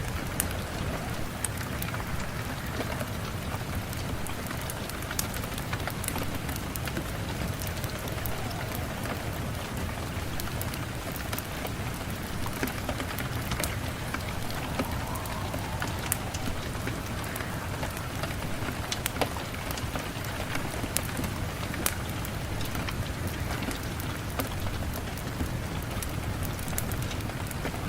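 Steady rain falling, with frequent small sharp crackles and ticks scattered through it from a wood fire burning in a fireplace.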